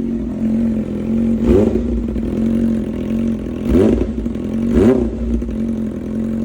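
Yamaha R6's inline-four engine idling loudly through a full SC Project exhaust with an Akrapovic header on its first cold start, blipped three times: about a second and a half in, near four seconds and near five seconds, each rev rising and dropping back quickly to idle.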